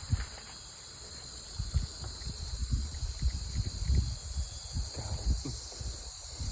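Steady insect chorus with a high, continuous chirring, over irregular low thumps.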